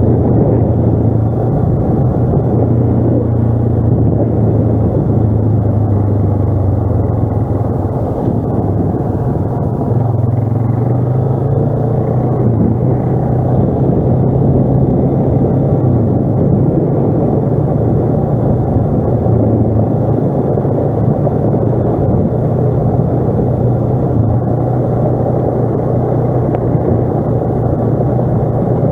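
ATV engine running steadily while riding, its pitch rising and falling a little with the throttle, over the rumble of the machine moving.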